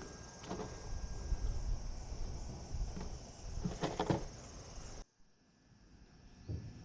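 Insects trilling steadily in a high, pulsing drone, with a few short knocks and rustles of handling close by, about half a second and four seconds in. About five seconds in the sound drops away suddenly and the trilling carries on more quietly.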